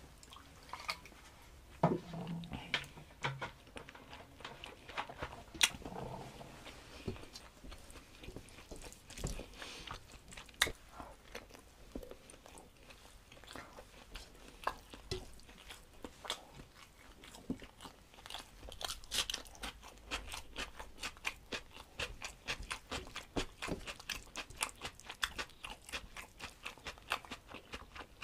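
Close-up eating sounds of a person chewing rice, dal and vegetables eaten by hand: wet mouth clicks and smacks, sparse at first and coming quick and dense in the second half.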